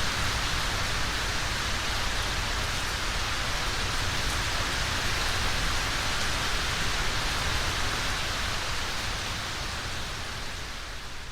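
Steady rain falling, a dense even hiss that fades down over the last couple of seconds.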